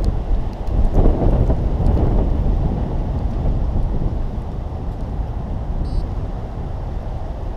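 Strong wind buffeting the microphone: a steady low rumble of wind noise, with a heavier gust about a second in.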